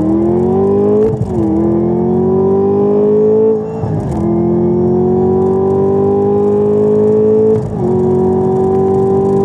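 Supercharged 6.2-litre LT4 V8 of a 2017 Camaro ZL1 at full throttle, heard from inside the car. The revs climb steadily in each gear and fall sharply at three upshifts: about a second in, near four seconds and near eight seconds. Before the slow shift into third the revs hang flat briefly, hitting the rev limiter.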